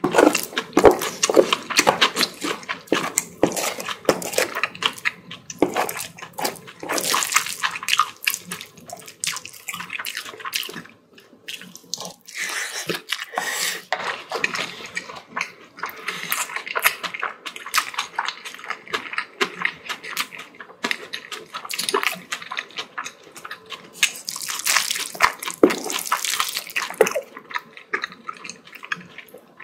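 Close-miked wet chewing and mouth sounds of someone eating a mouthful of spicy bibimbap (rice mixed with seasoned vegetables): a dense run of small squelches and smacks, with a brief lull about 11 seconds in.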